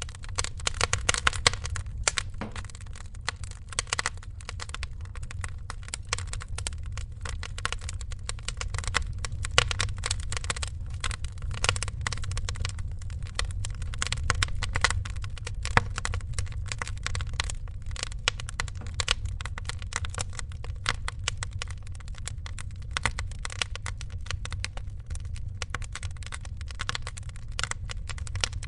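Wood fire crackling in a fireplace: dense, irregular snaps with a few louder pops, over a steady low rumble.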